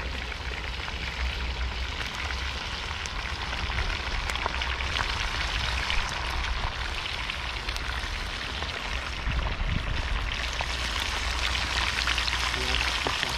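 Fish deep-frying in hot oil: a steady sizzle dotted with many small crackles.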